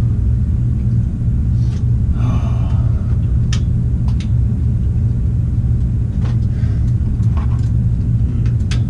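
A steady, loud low hum or rumble, with a few short light clicks scattered through it.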